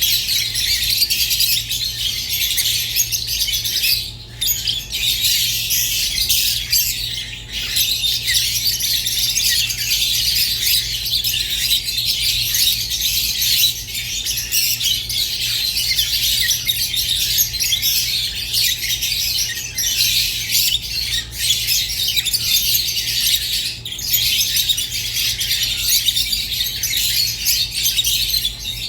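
Rosy-faced and Fischer's lovebirds chattering and squawking nonstop in a dense, high-pitched twitter, with brief lulls about four and seven seconds in. A faint steady low hum runs underneath.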